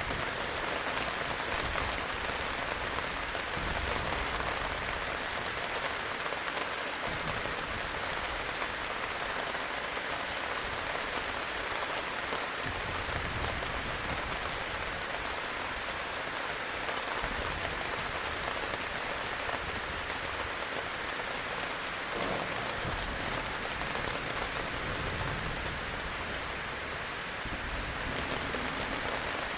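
Heavy rain falling steadily: a dense, even hiss of many drops with no break.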